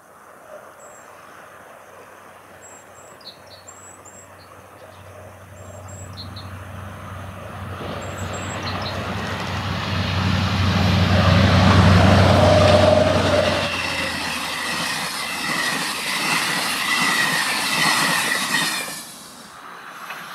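A diesel locomotive hauling a train of passenger coaches passes close by. Its low engine hum builds to a peak about twelve seconds in, then the coaches' wheels rumble along the rails with a faint squeal until the sound cuts off near the end. Birds chirp at the start.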